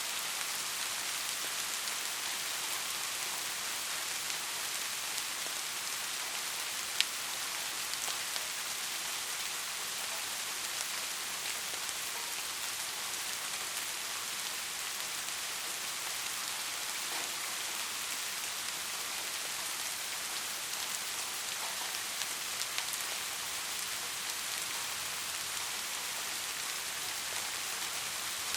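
Steady rain falling: an even hiss with scattered drop ticks, and one sharper, louder tick about seven seconds in.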